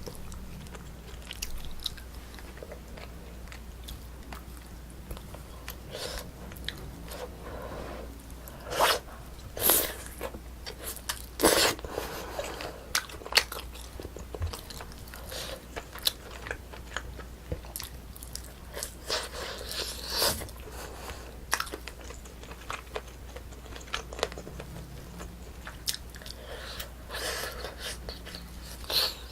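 Close-miked chewing, biting and wet mouth smacks of someone eating a braised spicy chicken meal, coming in irregular bursts with a few louder smacks. A steady low electrical hum runs underneath.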